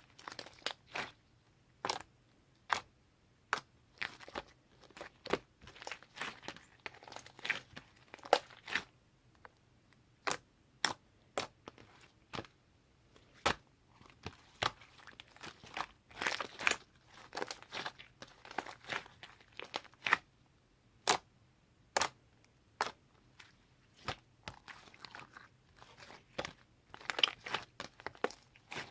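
Slime being squeezed and poked by hand, giving sharp, irregular clicks and pops, about one or two a second, with short clusters of crackling.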